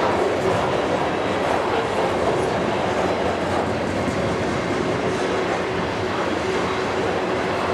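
Train passing, its wheels rolling steadily on the rails with a continuous clatter.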